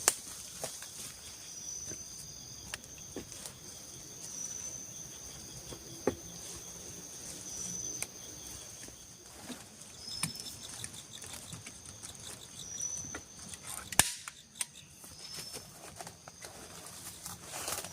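Forest ambience: a bird repeats a short, high rising whistle every two to three seconds over steady high insect noise. Scattered sharp knocks and clicks come through, one much louder than the rest near the end.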